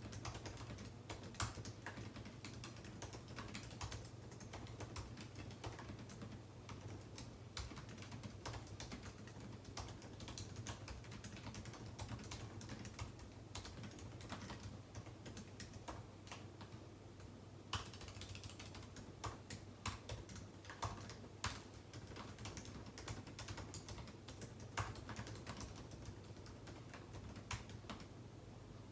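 Typing on a computer keyboard: a steady stream of irregular key clicks, with a few louder key strikes, over a steady low hum.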